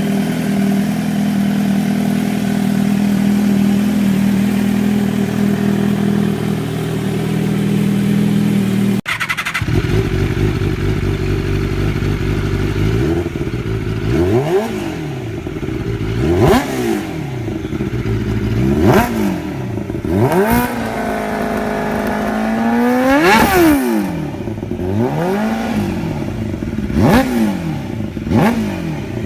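Motorcycle engine running steadily, then after an abrupt cut a string of repeated revs, the pitch rising and falling about every two seconds, one climbing especially high a little past two-thirds of the way through.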